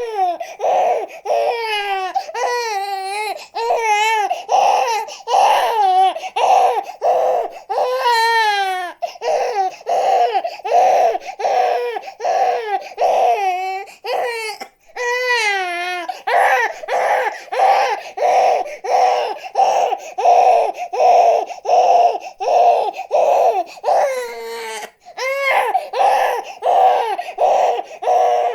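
Infant crying in short, rapidly repeated sobs about two a second, broken a few times by longer wavering wails.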